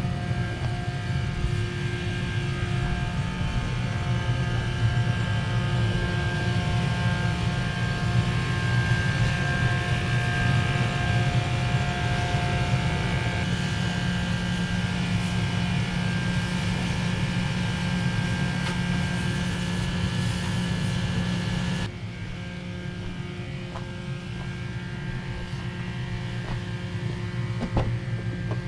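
An engine running steadily, with a hiss over it that cuts off suddenly about 22 seconds in, leaving the engine running on.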